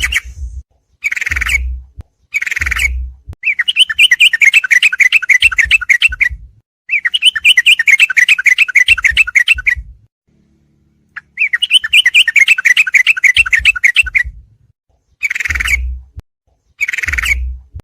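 Sooty-headed bulbul (trucukan) song: phrases of rapid, chattering repeated notes, some short and some running two to three seconds, with brief pauses between them.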